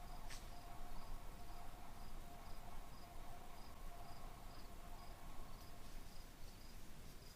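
Crickets chirping in an even rhythm, about two chirps a second, with a faint steady hum underneath and a single sharp click just after the start.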